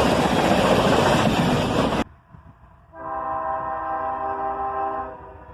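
Loud, steady rushing noise of a passing freight train that cuts off suddenly about two seconds in. About a second later, a locomotive air horn sounds one steady blast of about two seconds, several tones together.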